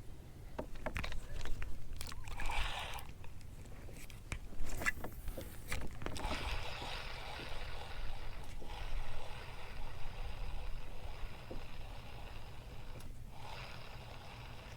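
Water sloshing and splashing, with a few scrapes and knocks in the first several seconds, then a steadier wash of water that eases off near the end.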